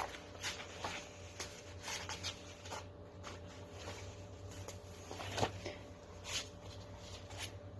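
Faint rustling and light scattered clicks of paper being handled, a little louder about five and a half seconds in, over a steady low electrical hum.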